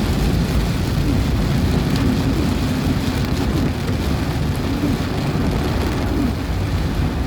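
Heavy rain falling in strong wind, a loud steady rush with a low rumble underneath. Low wavering hum of road traffic runs beneath the rain.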